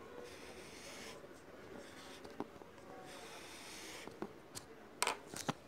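Pen or pencil writing on paper: soft scratching in two stretches, then a few sharp clicks and taps near the end.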